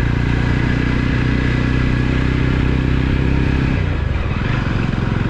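Motorcycle engine running steadily under load on a steep hairpin-bend climb. Its steady note breaks and changes about four seconds in.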